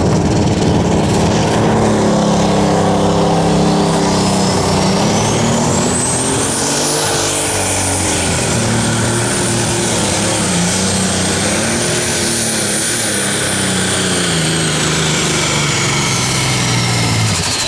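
Unlimited Super Stock pulling tractor's turbocharged diesel engine running at full power through a pull, its pitch wavering under load. A high turbo whine climbs about four seconds in, holds high, and drops away near the end as the run winds down.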